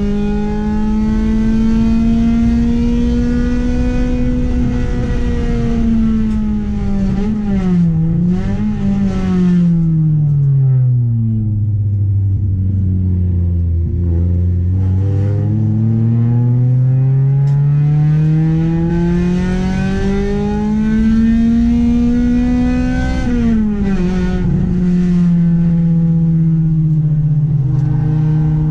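Honda Accord's H22A 2.2-litre VTEC four-cylinder engine being driven hard on track. The revs climb, then fall away under braking with a quick downshift blip about eight seconds in and bottom out mid-way. They then climb steadily again until a sharp drop a few seconds from the end, after which the engine holds a steadier pitch.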